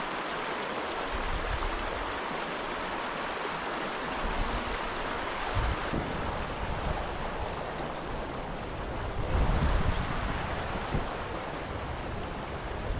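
River water rushing steadily over and around the stepping stones of the River Dove, with wind buffeting the microphone in low gusts about a second in, midway and again around two-thirds of the way through.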